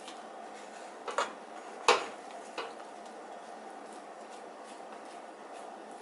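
A metal utensil knocking against a pot three times, the middle knock the loudest, as mashed potatoes are stirred, over a steady background hum.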